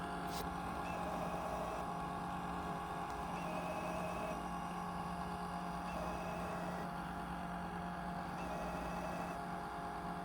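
Roomba S9+ robot vacuum running, its motor whirring steadily while it is stuck and its drive wheels spin freely as it keeps powering straight back instead of wriggling loose. A fainter higher tone comes and goes every two and a half seconds or so.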